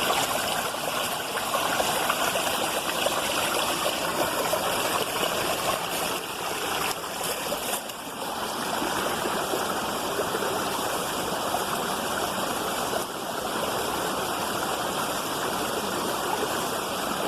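Waterfall: water falling and rushing over rock, a steady continuous roar.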